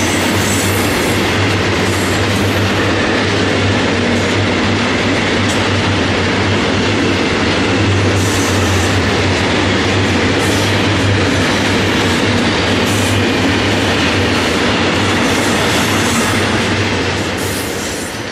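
Freight train of tank wagons rolling past close by: the steady rumble and clatter of wheels on the rails, easing off near the end as the last wagon goes by.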